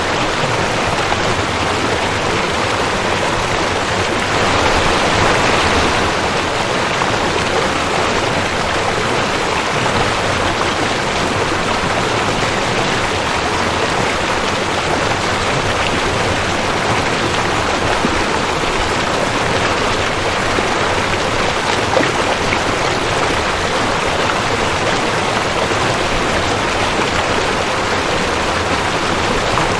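A rushing creek: running water making a steady, dense rush that swells slightly about five seconds in.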